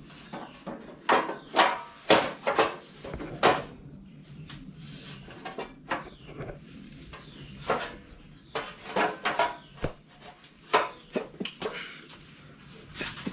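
A run of irregular clattering knocks, as of hard objects being handled and set down, some with a short ringing. No engine is running.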